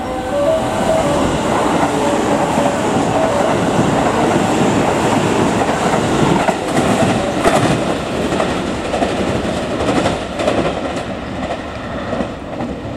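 A 281 series limited-express electric train passing through a station at speed, close by, its wheels clattering over rail joints and sets of points, with the sharpest clacks bunched about seven and ten seconds in. The noise dies down near the end as the train moves away.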